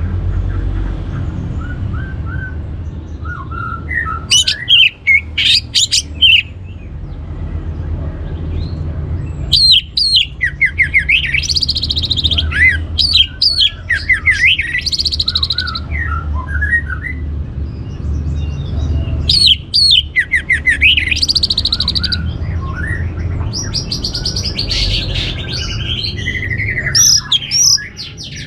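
Orange-headed thrush singing in four bursts of rapid, varied high notes that glide up and down, with harsh squawk-like notes mixed in, over a steady low hum.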